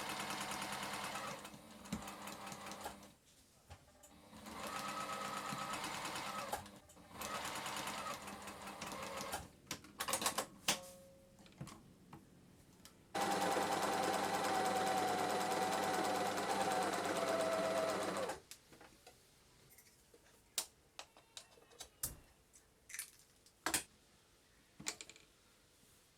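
JUKI SPUR 98 Special N straight-stitch sewing machine running in short bursts of stitching with pauses between, then one longer, louder run of about five seconds. After it stops, only scattered clicks and taps of handling are heard.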